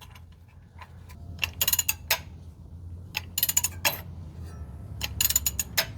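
Ratchet wrench clicking in three short bursts of rapid metallic clicks while the engine's crankshaft is turned over by hand, to send fresh oil through a rebuilt V8 before its first start. A steady low hum runs underneath.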